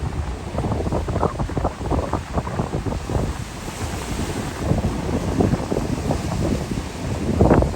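Wind buffeting the microphone in irregular gusts over the rush of ocean surf.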